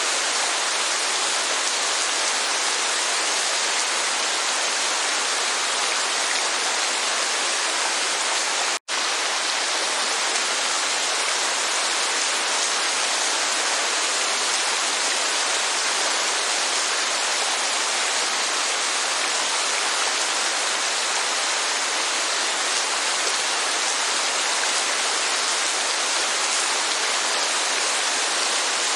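Steady, dense hiss of heavy rainfall and falling water, unchanging throughout, with a split-second dropout to silence about nine seconds in.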